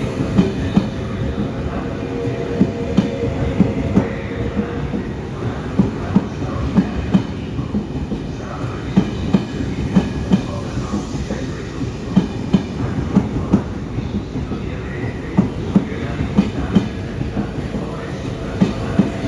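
A train rolling through the station, its wheels clacking in pairs over rail joints, over a steady hum with a held tone.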